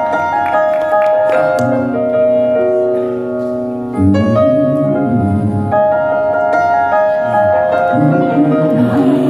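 Live band playing a slow instrumental introduction: sustained chords that change every second or two.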